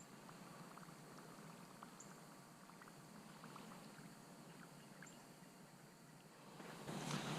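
Near silence, with faint water sounds and scattered small ticks around a kayak. A louder rushing, splashing noise comes in near the end.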